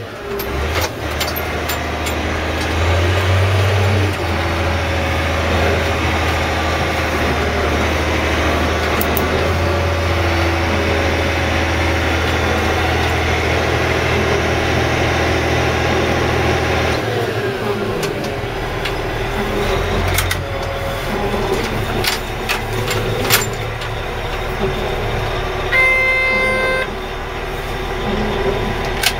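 Caterpillar 980G wheel loader's diesel engine running steadily under drive, with knocks and rattles from travelling over bumpy ground; the engine note rises about three seconds in and drops back about seventeen seconds in. A single beep about a second long sounds near the end.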